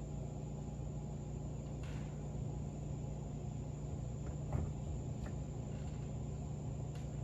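Steady low hum with a few faint clicks and a light knock about four and a half seconds in, from metal steering box parts being handled during reassembly.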